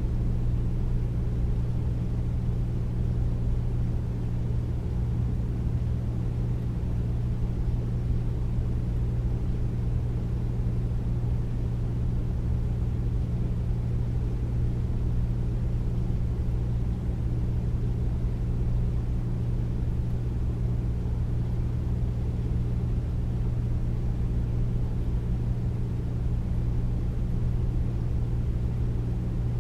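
Air conditioner running steadily: a deep, even hum with a low drone and airflow rush, no change in level.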